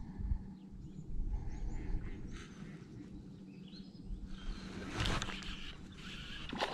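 Small birds chirping faintly over a steady low rumble, with a louder stretch of noise starting about two-thirds of the way in.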